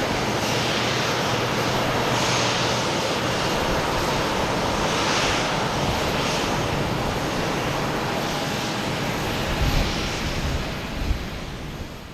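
Jet airliner engines running with a steady, loud rush, which fades away near the end. A couple of brief low thumps come in the last few seconds.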